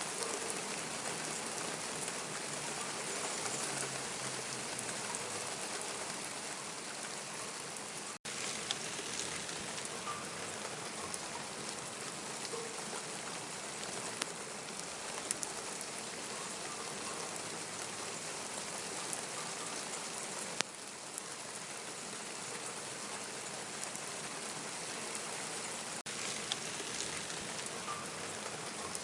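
Steady rain falling: an even hiss with now and then a sharper drip tick. The sound cuts out for an instant about eight seconds in.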